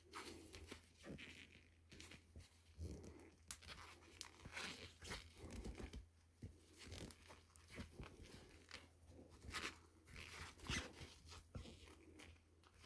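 Faint, irregular rustling and scraping with small clicks and knocks of hands handling parts.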